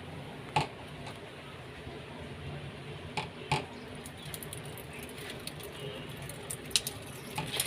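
A few light clicks and knocks, about four, scattered over a steady low hum.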